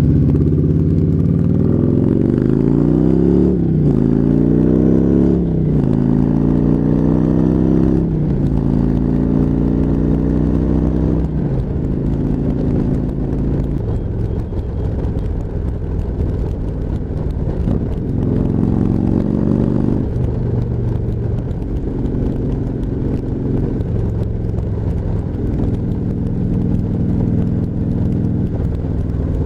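Motorcycle engine accelerating through the gears: its pitch climbs and then drops at each upshift, three times in the first eight seconds. It then settles into steadier cruising with smaller changes in pitch, with low wind rumble on the microphone underneath.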